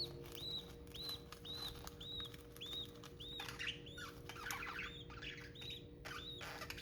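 Budgies chirping: a faint, evenly repeated high chirp about twice a second, with a stretch of rustling or wing flutter midway.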